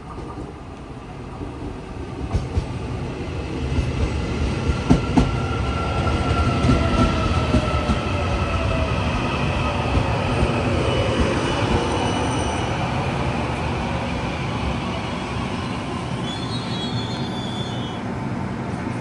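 A Taiwan Railway train passing through a station. The rumble of its wheels on the rails builds over the first few seconds, then stays loud and eases off slowly, with high ringing tones above it and a few sharp clacks about five seconds in.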